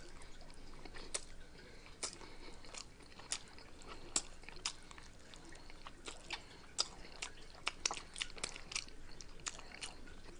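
A person chewing close to the microphone, with irregular crisp crunches and wet mouth clicks a few times a second.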